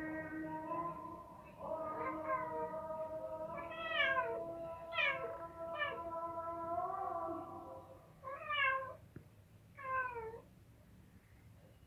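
Mother domestic cat meowing, about five short calls that fall in pitch, over a steady held tone in the first part.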